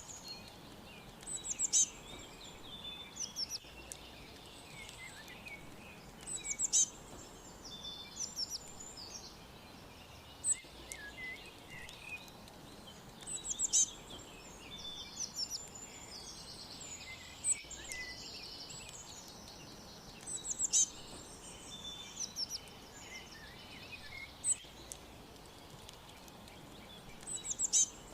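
Several small birds chirping and twittering: short high chirps and trills overlapping throughout, with a louder burst of sharp chirps every few seconds. A faint steady hiss of background noise lies underneath.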